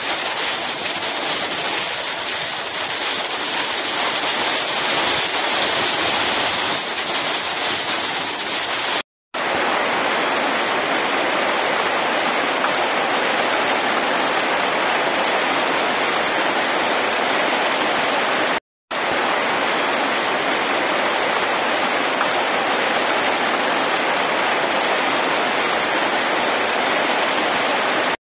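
Heavy rain pouring steadily onto a road and leafy vines: a dense, even hiss. The sound cuts out completely for a split second twice, about nine and nineteen seconds in.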